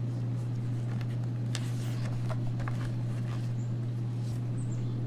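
A steady low hum, with a few faint clicks and rustles scattered through it.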